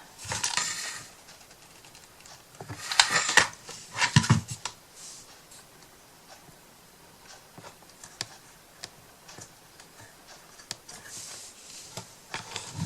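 Hands handling small craft pieces on a work surface: a few brief rustles in the first four seconds, a soft thump about four seconds in, then scattered light clicks and taps.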